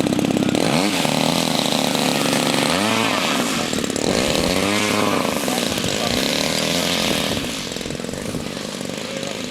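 Small light-aircraft engine revving, its pitch sweeping up sharply about one and three seconds in and rising and falling again around five seconds, then settling lower near the end.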